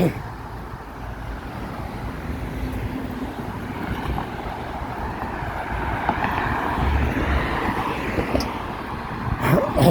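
Engine noise of passing vehicles, swelling and fading, with wind on the microphone and brief handling rubs near the end.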